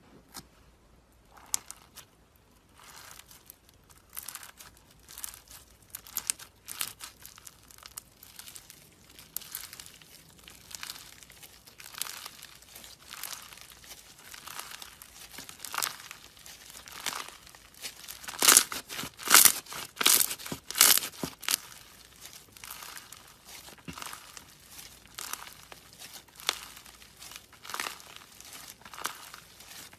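Irregular crinkling and crackling, a dense run of small crackles with a louder, crunchier stretch about two-thirds of the way through.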